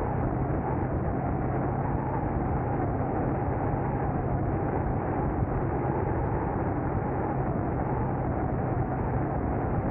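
Steady road noise of a car being driven: tyre rumble with a low, even engine drone.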